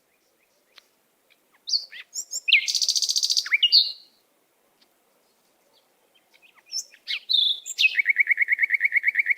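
A songbird singing two phrases, each made of quick whistled notes and a fast trill; the second phrase ends in a low buzzy trill of about ten notes a second.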